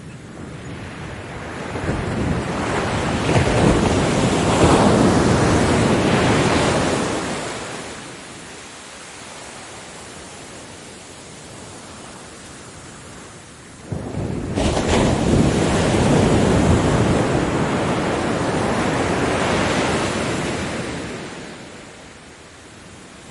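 Ocean waves breaking on a beach: one wave surges in and washes out over several seconds, then after a quieter lull a second breaks suddenly and washes back.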